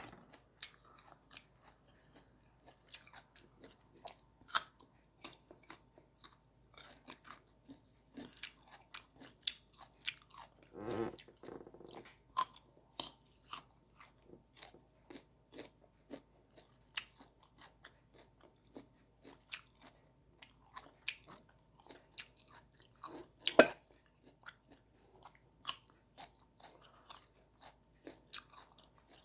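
Close-up crunching of firm, unripe green mango flesh being bitten and chewed: many short crisp crunches, with louder bites about eleven seconds in and again near the two-thirds mark.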